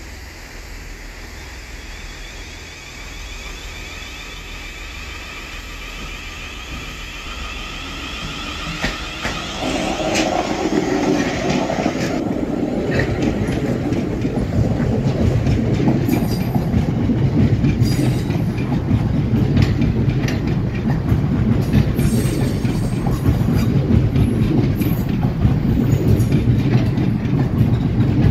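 A train approaching and then running past close by. Steady high ringing tones grow louder over the first ten seconds or so. Then comes a loud, continuous rumble with the wheels clicking over rail joints.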